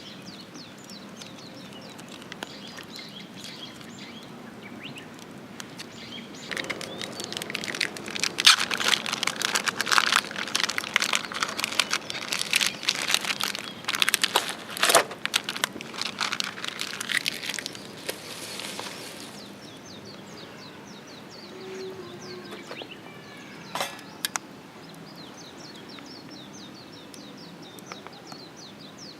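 Birds chirping in the background, with a stretch of close rustling and crackling from about seven to nineteen seconds in.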